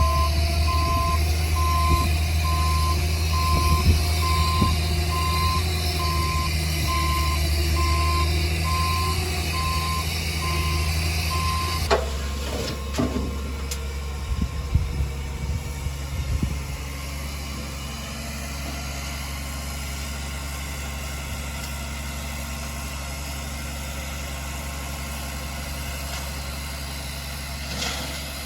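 Heavy diesel construction vehicle reversing: its backup alarm beeps steadily at one pitch over the engine. About twelve seconds in the beeping stops, a few clunks follow, and the engine settles to a steady idle.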